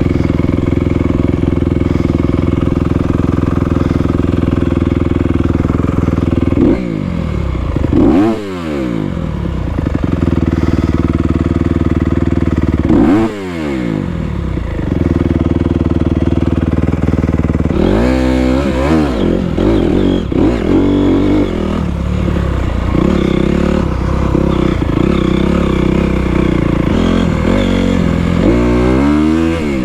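Honda CRF250R dirt bike's single-cylinder four-stroke engine running under way on a trail ride. The revs drop and climb again several times: once about seven to nine seconds in, again around thirteen seconds, in a longer spell of rising and falling in the middle, and once more near the end.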